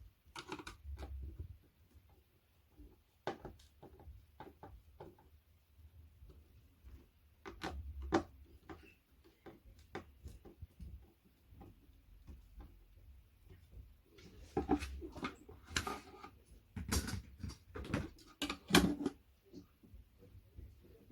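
Flat-pack furniture parts and hardware being handled during assembly: scattered clicks and knocks, growing busier in the last third, with the loudest knock near the end.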